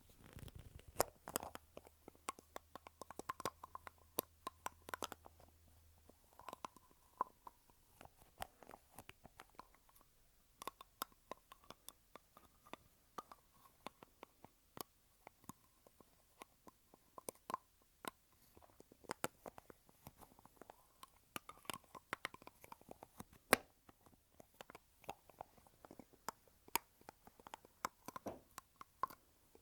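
Lipstick tubes and their caps handled close to the microphone: many quick, irregular clicks and taps as the lids are worked on and off, with a faint rubbing tone in stretches.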